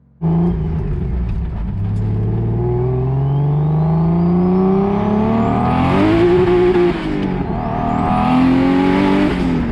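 Turbocharged BMW M52 inline-six under full-throttle acceleration, its note rising through a gear, dipping at a gear change about six to seven seconds in, then rising again. A high turbo whistle climbs with each pull.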